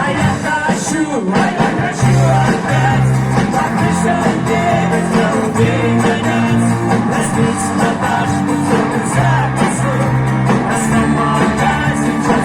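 Live rock band music from a vocal-instrumental ensemble: guitars over a steadily moving bass line, with a beat.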